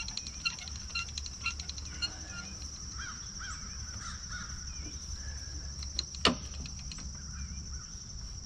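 Birds calling repeatedly over a steady high-pitched whine, with one sharp knock about six seconds in.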